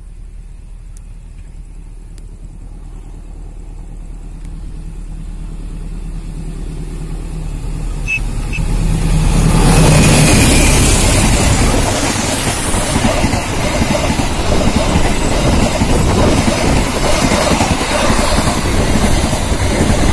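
CC 206 diesel-electric locomotive (GE C20EMP) approaching, its engine growing steadily louder until it passes close by about ten seconds in. The passenger coaches follow with a steady rumble and clatter of wheels on the rails.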